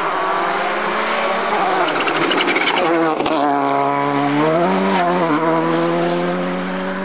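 Rally car engine under load: the revs climb, drop sharply about three seconds in at a gear change, rise and dip again, then hold steady. A rapid crackle sounds just before the shift.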